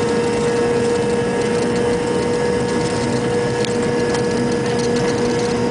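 Steady jet engine noise from a Delta MD-88's rear-mounted Pratt & Whitney JT8D turbofans: a constant rushing noise with a steady hum, and a low tone pulsing about three times a second.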